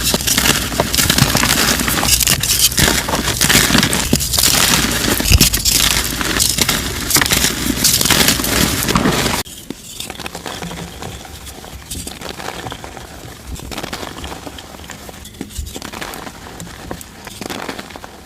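Dyed gym chalk being crushed: dense, crisp crunching and crackling. About nine seconds in it cuts to a quieter, finer crumbling of chalk.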